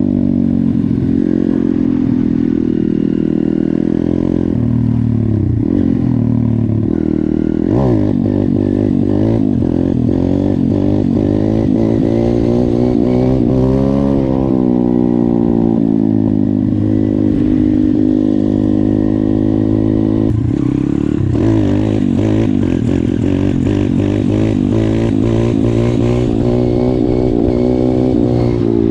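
YCF 150 pit bike's single-cylinder four-stroke engine running under riding load. The revs climb and drop again and again as the throttle is worked, with a long rise in pitch around the middle and sharp drops about a fifth and two-thirds of the way in.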